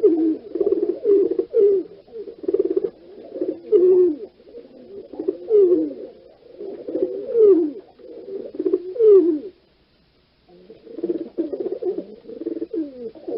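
Pigeons cooing, low overlapping calls with short falling notes, breaking off for about a second two-thirds of the way through before starting again.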